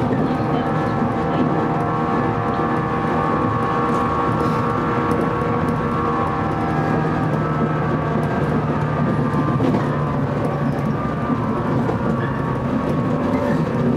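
Electric train running and slowing as it comes into a station, heard from the cab: a steady whine of several tones over wheel-on-rail noise.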